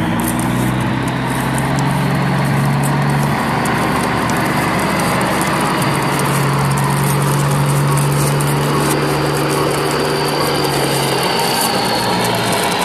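A truck engine running steadily, with a constant rattling clatter over it as the loaded plastic toy dump trucks roll over brick paving.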